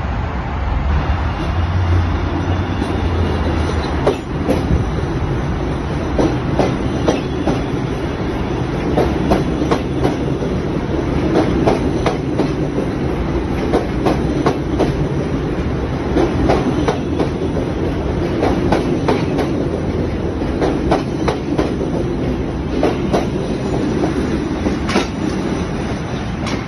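A CTA 7000-series 'L' rapid-transit train rolling past at close range. A low hum comes first, then the wheels click rhythmically over the track as the cars go by.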